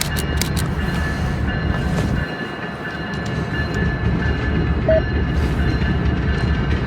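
A train rolling past close by: a steady, loud low rumble of wheels on rail, with a thin steady high whine and sharp clicks from the wheels.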